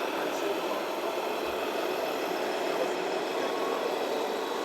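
Radio-controlled model trucks running with a steady, engine-like hum.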